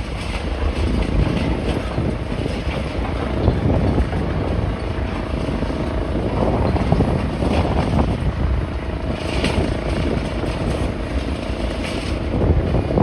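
Wind buffeting the microphone in a steady low rumble, mixed with the noise of passing street traffic.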